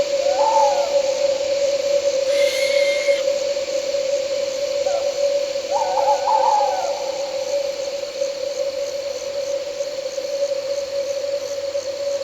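An owl hooting, a wavering call near the start and a longer one about midway, with a brief higher call in between. Beneath it runs a steady, unbroken drone and the fast, even chirping of night insects such as crickets.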